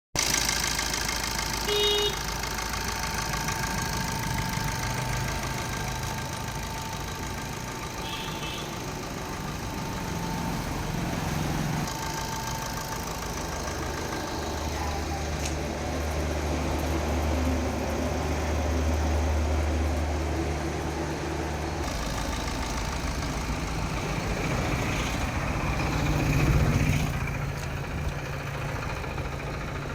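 Car engine idling steadily, with two short beeps about two seconds and eight seconds in. The engine note shifts in the middle and briefly swells near the end.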